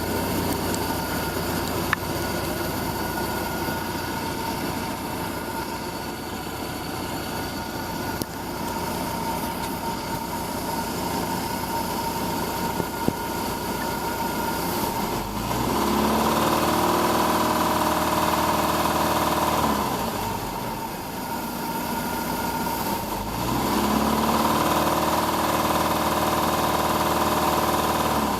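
MerCruiser 470 four-cylinder marine engine idling, then revved up and held twice, about halfway and again near the end, with the knock it has had since new.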